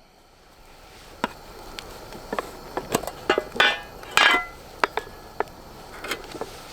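Metal camp gear being handled: a scatter of sharp clicks and clinks, with two short rattling, ringing clatters near the middle.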